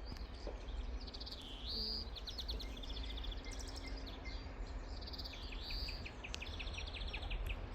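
European greenfinch singing: two phrases of quick repeated trilled notes mixed with rising wheezy notes.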